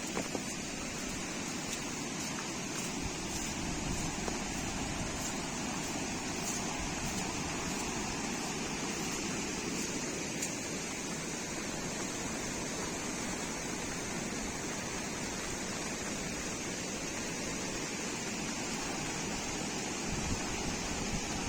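Steady rush of water in heavy rain, with faint ticks of drops through the first half.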